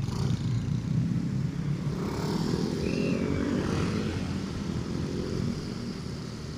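Motorcycle engine running under way, with wind rushing over the action camera's microphone. The engine's pitch climbs between about two and four seconds in.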